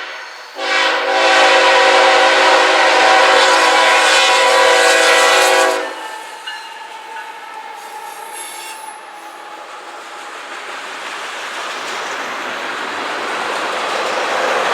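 Locomotive air horn sounding one long chord of several notes for about five seconds, cutting off sharply. Then the steady rumble and clatter of the passing train on the rails, growing louder toward the end.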